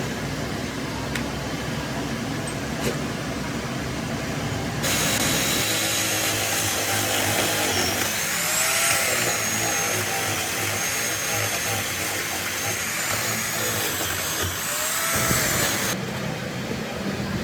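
A high-speed power tool running, from about five seconds in until it cuts off near the end, with a hiss and a high whine that rises and falls in pitch twice as the tool is loaded and eased off. Before it starts there is a low rumble.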